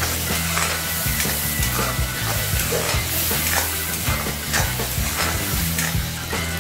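Chopped tomatoes and onions sizzling in oil in a coated wok, with a metal spoon scraping and knocking against the pan as they are stirred.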